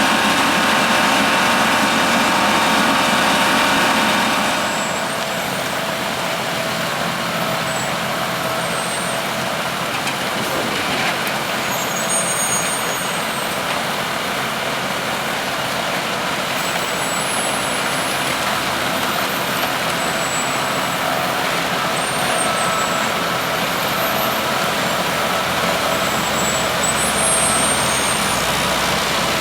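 Vohl snow blower at work, its diesel engine running steadily under load. It is louder, with many engine tones, for the first four or five seconds, then settles a little quieter.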